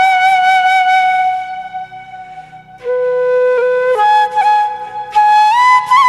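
Flute melody of long held notes with small ornaments. It fades about two seconds in and comes back with a new phrase about a second later.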